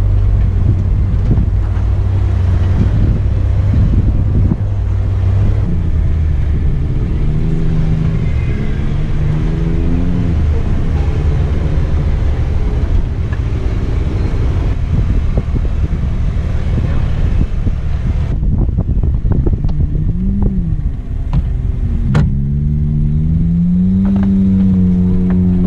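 Off-road Jeep engine running, its revs rising and falling several times over a steady low hum and rumble. There is a single sharp knock about 22 seconds in.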